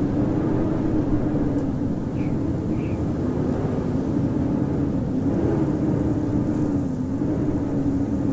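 Howling winter storm wind: a steady deep rush with a low howl whose pitch wavers slightly up and down.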